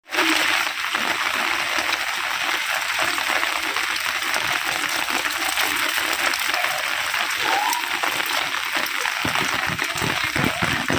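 Heavy rain falling steadily in a dense, even hiss. From about nine seconds in, a lower, gusting sound of wind joins it.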